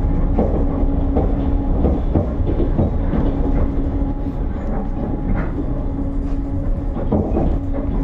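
Passenger train running along the track, heard from inside the carriage: a steady low rumble of the wheels on the rails with a constant hum and repeated clacks at the rail joints.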